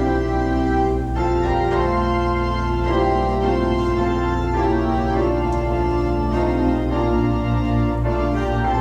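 Organ music: slow sustained chords over a held bass, changing every second or so.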